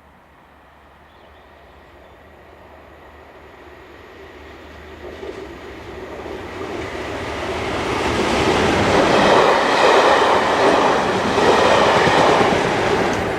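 A pair of Class 37 diesel locomotives with English Electric V12 engines, 37057 and 37610, approaching and passing. The sound grows steadily louder for about eight seconds, stays at its loudest for a few seconds, then begins to fade near the end.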